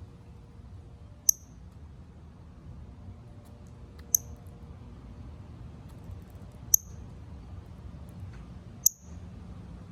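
Northern cardinal giving sharp, high chip calls: four single notes a couple of seconds apart.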